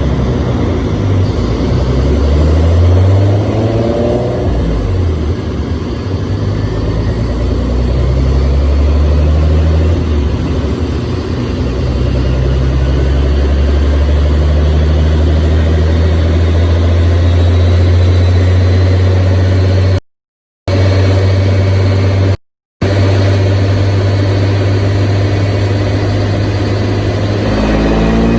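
Twin-turbo VG30DETT V6 of a tuned 1993 Nissan 300ZX with aftermarket exhaust, running at a steady idle. There is a brief blip of revs about four seconds in, and the revs start climbing near the end. The sound cuts out twice for a moment partway through.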